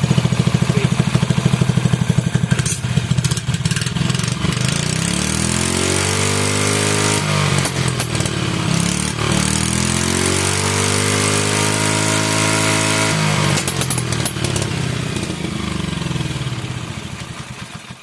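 Vintage 2 hp Briggs & Stratton single-cylinder flathead engine running, with a fast even firing beat at first. It is revved up and back down twice, then slows and dies away near the end.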